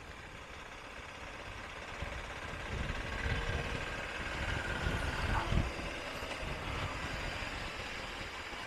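Motorcycle engine running under way, with wind and road noise on the camera, growing louder over the first few seconds. A faint steady tone in it cuts off about five and a half seconds in.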